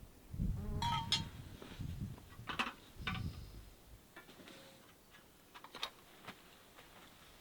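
Light metallic clinks and taps of camp cookware and utensils being handled, several short ringing strikes, over low rumbling bumps in the first half.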